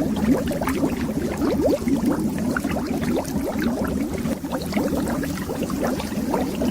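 Continuous stream of air bubbles underwater, many small bubbles rising in a steady flow, each a short upward-gliding blip over a low rumble.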